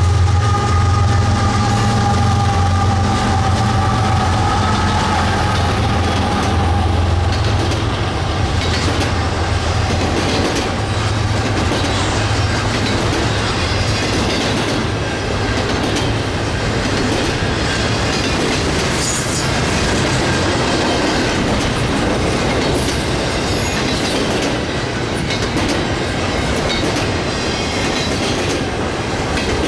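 BNSF freight train passing on the Aurora Sub: the diesel locomotives' low drone fades over the first several seconds, leaving the steady rumble and clickety-clack of the freight cars' wheels over the rail joints.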